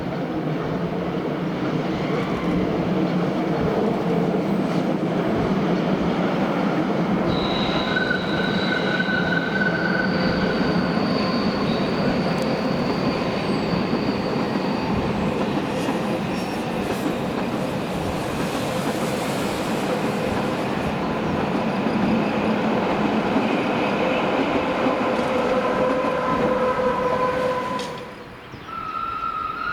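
Rhaetian Railway train running past, a steady rumble of wheels on track with high-pitched wheel squeal coming and going as it rounds the curve. The sound drops away sharply near the end.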